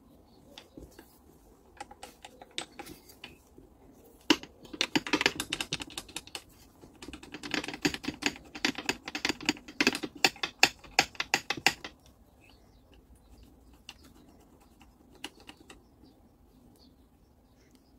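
Rapid clicking and rattling of hand tools and small metal parts being handled, dense from about four seconds in until about twelve seconds, with scattered single clicks before and after.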